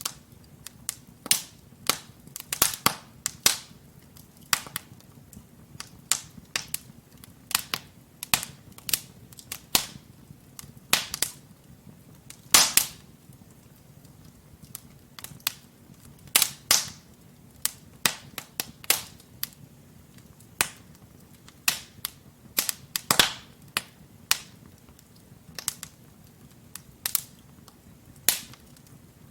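Wood fire burning logs in a fireplace, crackling and popping irregularly, sharp snaps coming every second or so with a few louder pops, over a faint low hiss.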